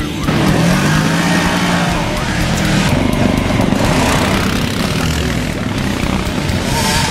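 Off-road race vehicles' engines running hard and revving, the pitch climbing shortly after the start and then holding.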